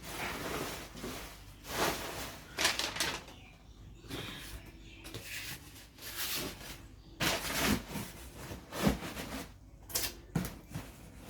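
Handling sounds while unpacking dishes: irregular rustles of packaging and a few light knocks.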